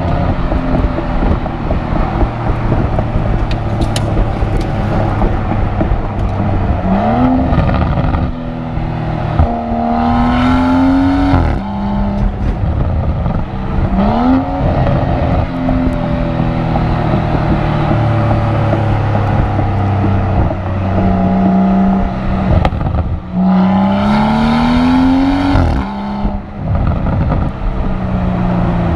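2017 BMW X4 M40i's turbocharged 3.0-litre inline-six accelerating through the gears. The engine and exhaust note climbs in pitch and drops suddenly at each upshift, several times over.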